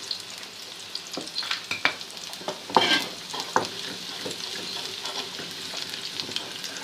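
Chopped garlic and onion sizzling and crackling in hot ghee, being fried golden for a tadka, with stirring scrapes and clicks in the pan, loudest about three seconds in.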